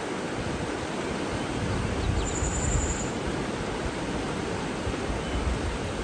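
Steady rush of water, an even noise with no rhythm. About two seconds in, one thin, high bird note is held for just under a second.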